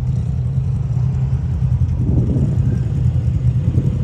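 Side-by-side UTV engine running steadily at low, even revs.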